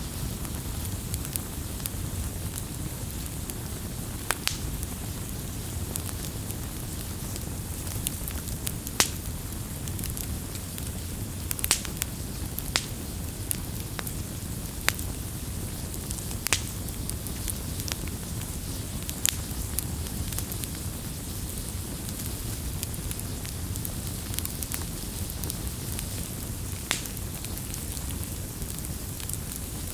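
Bonfire crackling: sharp wood pops at irregular intervals over a steady low noise of burning.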